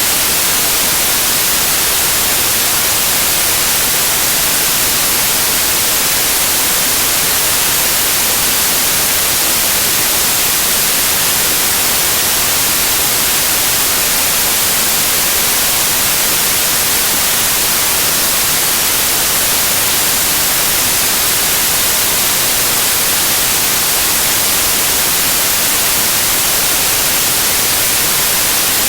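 Loud, steady white noise: an even, unchanging hiss, brightest in the high frequencies.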